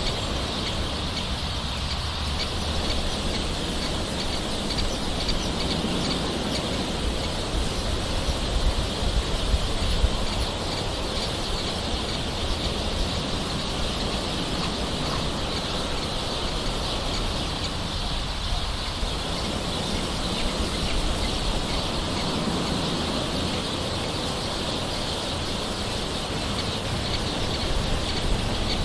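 Light rain falling steadily, with birds calling throughout.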